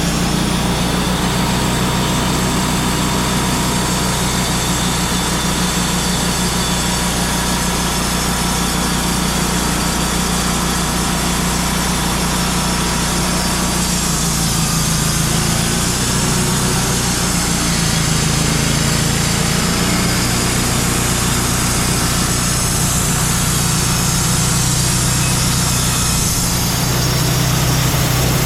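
Portable band sawmill's engine running steadily, its low hum shifting in pitch about halfway through and again a few seconds later.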